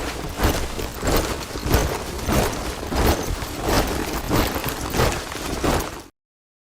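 Boots of a body of soldiers marching in step: a steady rhythm of heavy stamping footfalls, cutting off abruptly to dead silence about six seconds in.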